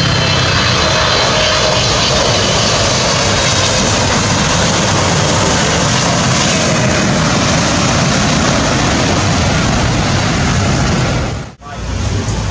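Jet engines of an Emirates Boeing 777-300ER, General Electric GE90-115B turbofans, giving a loud steady rush of jet noise with a faint whine over it. The noise drops out sharply for a moment near the end, then resumes.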